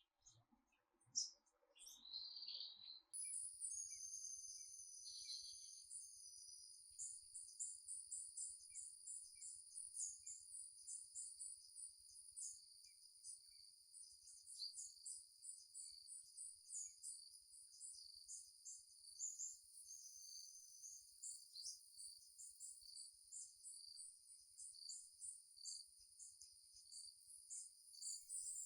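Faint bird chirps, then about three seconds in a high insect chorus starts up, steady and pulsing rapidly, with occasional sliding bird whistles over it.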